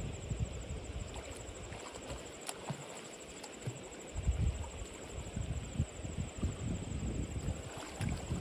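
Wind buffeting the microphone in uneven gusts, easing for a second or two before picking up again, with a faint steady high-pitched tone above it.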